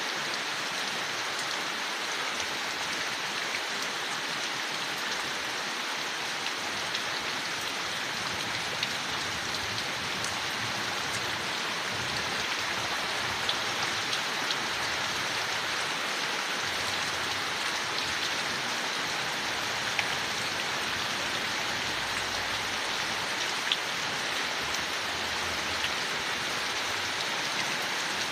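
Steady rain falling on leaves, an even hiss with scattered sharper drop ticks.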